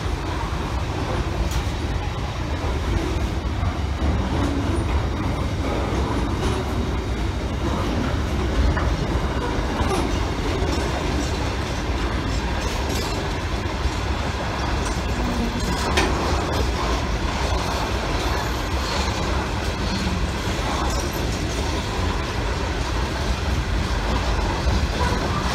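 Wagons of a long container freight train rolling past: a steady rumble of steel wheels on the rails, with occasional sharp clicks, one louder about sixteen seconds in.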